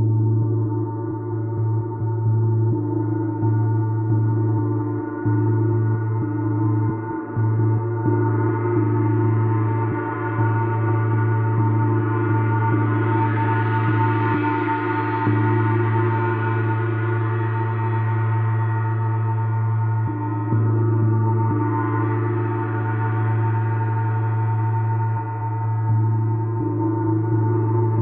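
Gong played continuously for a gong bath: a steady low hum with many overtones ringing together, swelling brighter twice.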